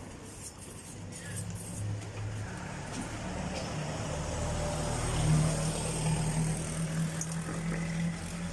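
Motor vehicle engine running close by, getting louder over the first few seconds and staying loud to the end.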